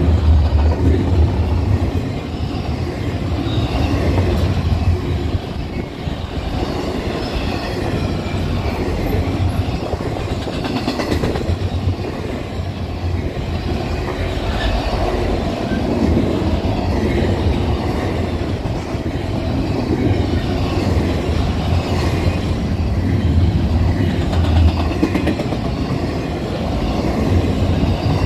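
Double-stack intermodal train of container-laden well cars passing at speed: a steady low rumble of steel wheels on rail with clatter from the cars.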